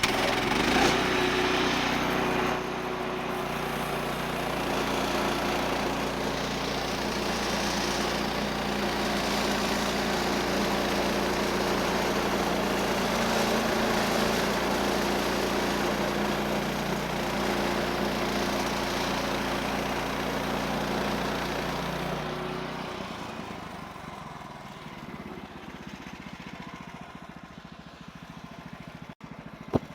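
Portable bandsaw sawmill's 14 HP Kohler engine running at high throttle while the band blade cuts through a log. About 22 seconds in the engine and cutting noise drop away as it throttles back toward idle, and a sharp click comes near the end.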